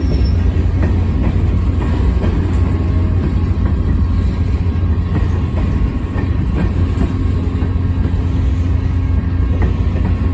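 CSX local freight train rolling past: a steady low rumble of wheels on rail with faint scattered clicks.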